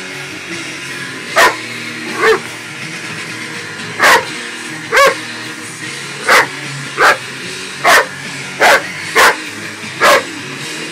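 Dog barking about ten times in short, sharp single barks, spaced unevenly a half-second to two seconds apart, at a hairdryer.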